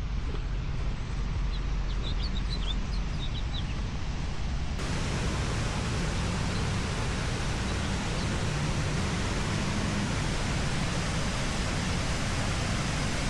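Big Sioux River waterfalls rushing over quartzite rock, a steady wash of falling water. A few short bird chirps sound in the first few seconds. About five seconds in, the rushing turns suddenly fuller and brighter.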